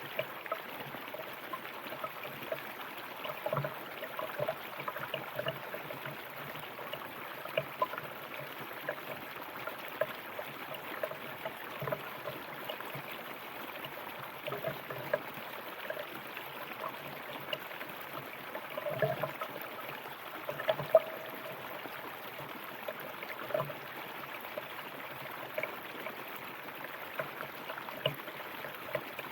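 River water flowing over stones: a steady babbling rush dotted with many small splashes and gurgles, a little busier about twenty seconds in.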